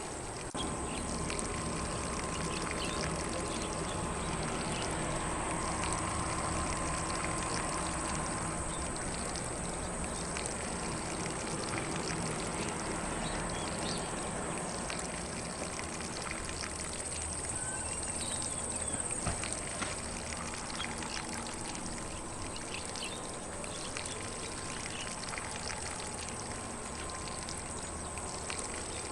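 Lawn sprinkler spraying water steadily across grass, a continuous hiss and patter, with faint bird chirps now and then.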